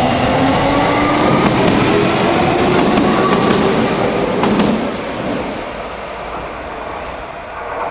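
Yokohama Minatomirai Railway electric commuter train running through the station: the motor whine rises in pitch over the rumble of the wheels, with a few clacks over rail joints. The sound fades after about five seconds as the last car goes by.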